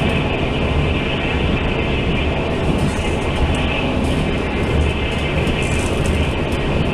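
Steady running noise heard from inside a Taiwan Railway Fu-Hsing express passenger coach at speed: wheels rumbling on the rails, with faint light clicks.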